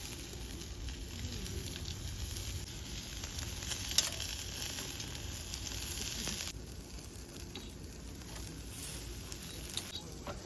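Food sizzling over a charcoal fire in a fire pit, with one sharp pop about four seconds in. The hiss eases off a little past the middle.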